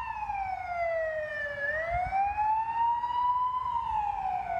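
Ambulance siren wailing, its pitch sliding slowly down and up in sweeps of about two seconds each.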